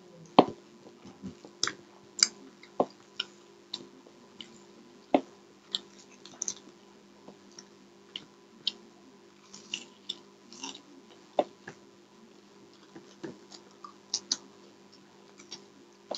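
Close-miked eating of a fried, breaded chicken cutlet: irregular crisp crunches and wet mouth clicks while chewing, over a faint steady hum.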